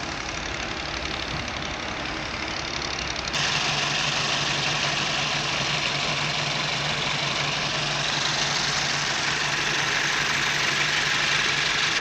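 Diesel engine of a piece of quarry machinery running steadily. About three seconds in, the sound changes abruptly and becomes louder and brighter.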